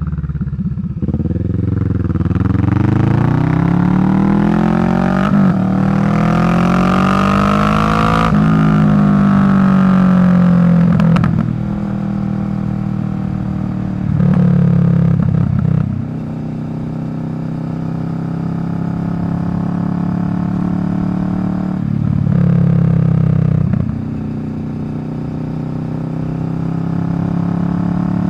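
2023 Kawasaki Vulcan 650's parallel-twin engine through a Delkevic slash-cut exhaust, under way. The pitch climbs and drops back several times over the first eleven seconds as it shifts up through the gears, then it runs steadier, with two short louder bursts of throttle.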